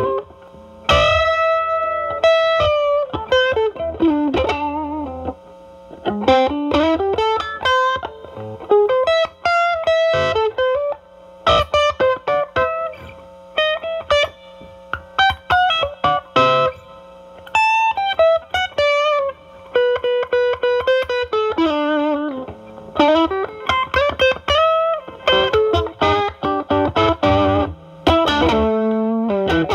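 Overdriven electric guitar playing single-note blues lead lines with string bends and vibrato. It is a Stratocaster with single-coil pickups through a Ceriatone Centura Klon-style overdrive set at gain 8 into a Marshall Valvestate's drive channel, with the guitar's volume rolled back to clean up the tone.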